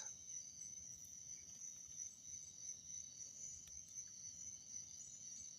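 Night insects chirring: a faint, steady high-pitched drone.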